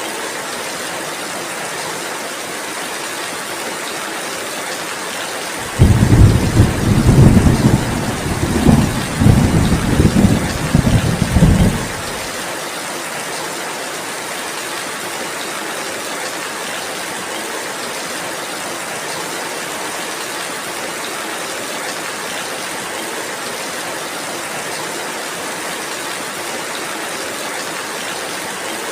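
Steady rainfall. About six seconds in, a loud, deep rumble of thunder starts suddenly, rolls for about six seconds, then stops.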